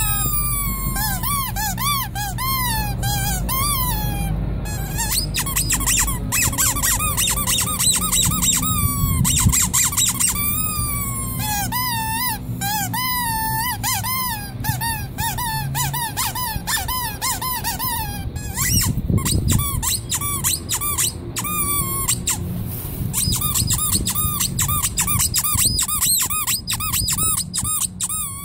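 Rubber squeaky toy squeezed again and again in quick succession, each squeak a short whistle that bends up and down in pitch, with a low hum underneath for the first half.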